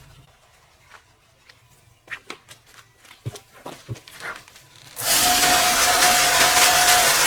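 A few scattered knocks and clicks, then about five seconds in a motorized cleaning machine starts abruptly and runs with a loud steady hiss and a steady high whine.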